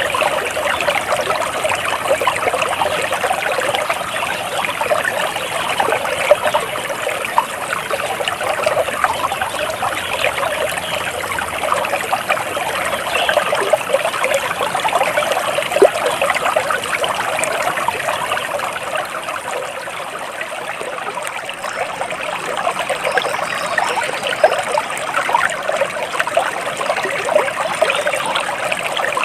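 Flowing water trickling and babbling steadily, a dense splashing with no pauses.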